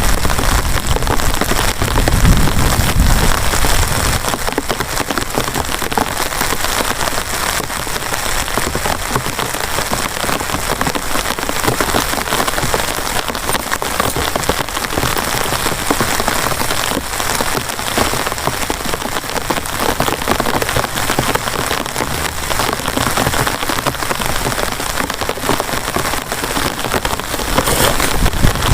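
Heavy rain falling steadily, with a dense hiss and many close drop hits on a surface. A low rumble fades out about four seconds in.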